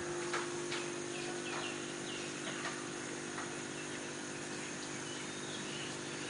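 Birds chirping, a few short falling calls and clicks, over a steady low hum.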